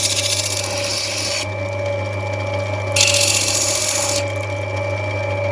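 Lapidary grinding wheel's motor running steadily while an opal is pressed against the wheel twice to grind down one edge. Each press makes a hissing grind, the first fading about a second and a half in and the second lasting about a second past the middle.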